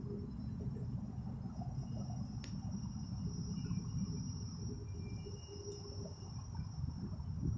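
Airport apron noise around a Boeing 747 freighter under tow: a steady low rumble with a thin, steady high-pitched whine above it. There is one brief click about two and a half seconds in.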